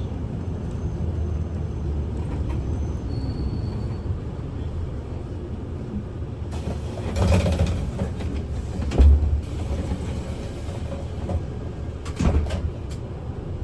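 City bus interior: the diesel engine running low and steady while the bus stands at a stop, with a burst of air hiss about seven seconds in and a heavy thump about nine seconds in as the doors work, and a few sharp clicks near the end.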